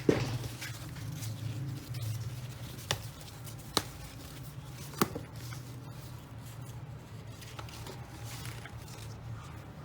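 Hand cross-stitching on aida fabric: a few sharp clicks and taps of needle, thread and hoop handling, the loudest right at the start and others about three, four and five seconds in, over a low steady hum.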